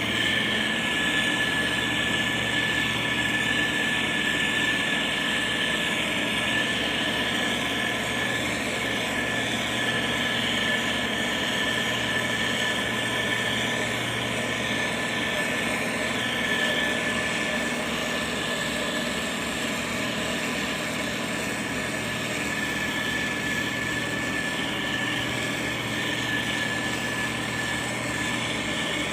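Diesel engine of heavy road-construction machinery running steadily, with a steady high whine over the engine noise.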